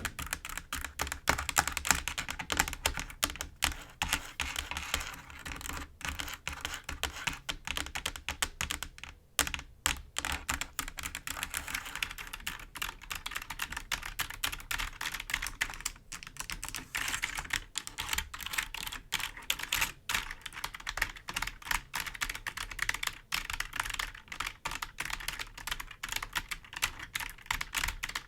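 Clicky computer keyboard keys being rapidly tapped and scratched: a dense, continuous stream of clicks, thinning out briefly about nine seconds in.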